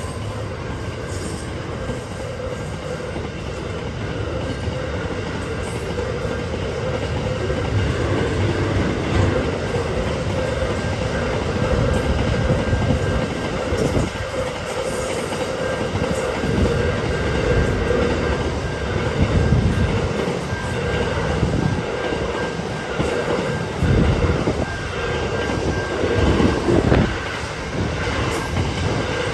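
Train passing over a two-track level crossing: a continuous rumble of wheels on rail with scattered knocks, getting louder and rougher in the second half.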